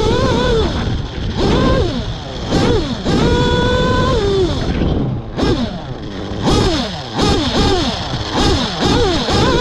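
Nitro RC car's small glow-fuel two-stroke engine revving hard and high-pitched, the throttle blipped up and down over and over, with one steady full-throttle stretch about three seconds in.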